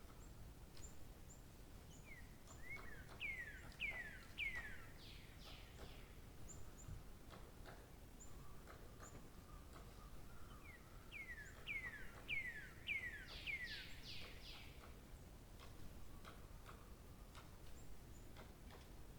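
A songbird singing two phrases, each a quick series of downward-sweeping whistled notes, about two a second, with faint high chips between the phrases.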